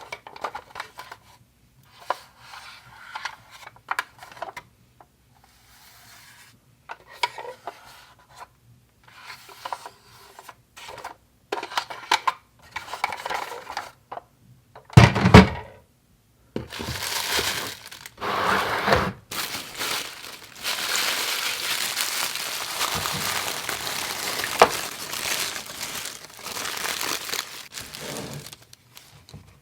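Small plastic toy kitchen pieces being handled: scattered clicks, taps and rubbing, with one louder knock about halfway. Then several seconds of steady rustling, like packaging being crinkled or torn.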